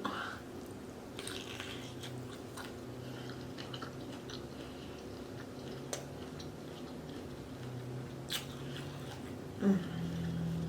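A person chewing shrimp from a seafood boil close to the microphone, with a few sharp mouth clicks and smacks. A brief hummed sound comes near the end.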